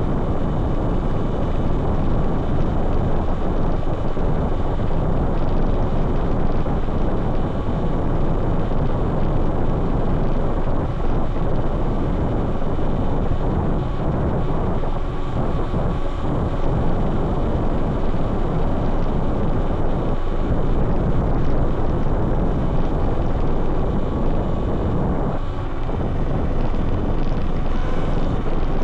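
Steady rush and rumble of wind buffeting a handlebar-mounted microphone as a Talaria Sting R MX4 electric dirt bike rides at speed across a dry lake bed, with tyre noise from the playa underneath.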